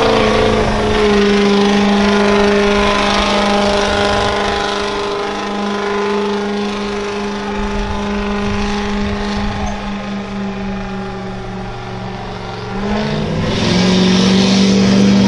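Engine of a truck or tractor pulling a sled, held at high, steady revs. Its pitch drops and then climbs back up about thirteen seconds in.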